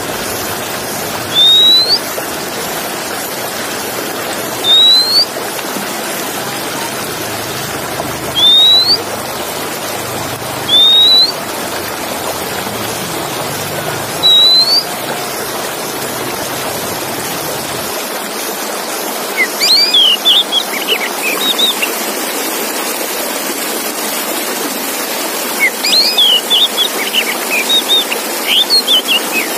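Male Oriental magpie-robin (kacer) song: a series of short, loud rising whistles a couple of seconds apart, then, in the second half, two bursts of quick, varied chirping notes. A steady hiss sits underneath.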